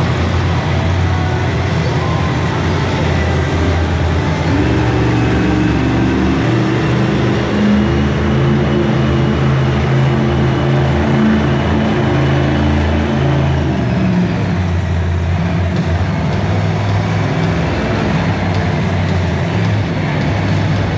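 Monster truck engines running loud and low, the pitch stepping up and down as they rev.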